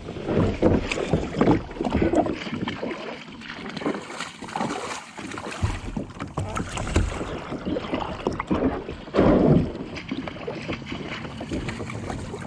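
A kayak's hull scraping and grinding over the stony bottom in shallow water, in irregular rough bursts with a stronger surge about nine seconds in: the boat is grounding as it is drifted in to land.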